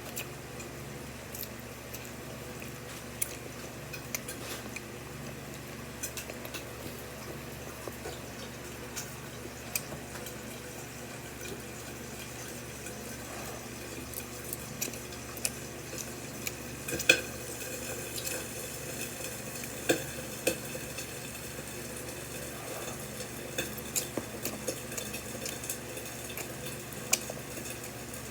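Utensils stirring black bean noodles and clinking now and then against the bowl, over a steady background hiss; one sharper clink comes a little past halfway.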